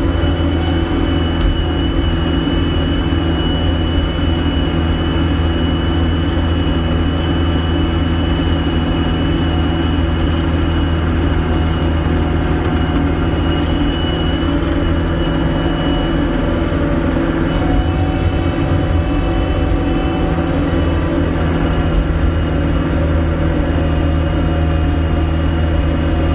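Gehl 5625SX skid steer's diesel engine running steadily under way, heard from inside the cab, with a thin steady whine above it.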